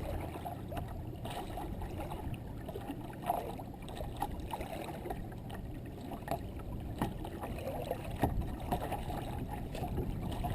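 Water sloshing and lapping against a kayak's hull, with small knocks and clicks scattered throughout.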